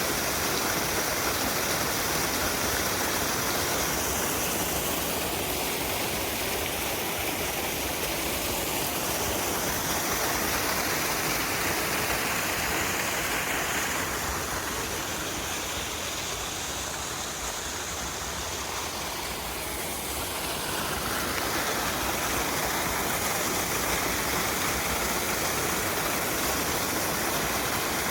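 Waterfall on a mountain stream: water falling and splashing in a steady rush, a little softer past the middle before it returns.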